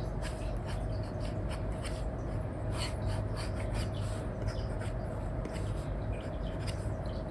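Apple Pencil tip with an Elecom replacement nib scratching and tapping on a paper-like screen film in quick, irregular strokes while colouring, over a steady low background hum.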